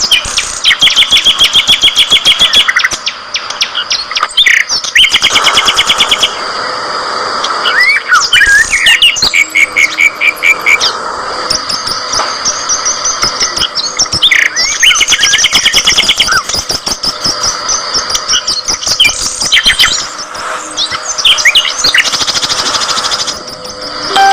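A flock of budgerigars chattering loudly, with many overlapping chirps and rapid trains of repeated notes.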